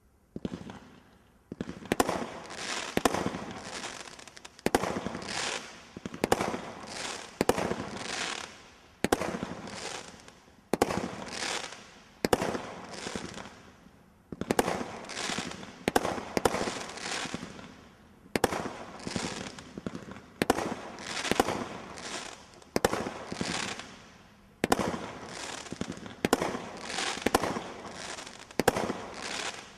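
'Ninjas' consumer firework barrage cake firing a long run of shots, about one a second, starting about a second in. Each shot is a sharp bang followed by a hissing tail.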